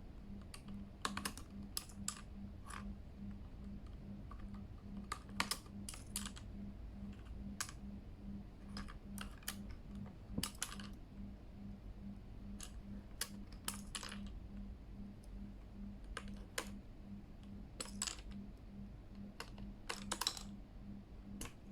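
Keys on a Keychron K8 mechanical keyboard being pressed one at a time in irregular clicks, checking that freshly fitted keycaps sit properly. A low hum pulsing about twice a second runs underneath.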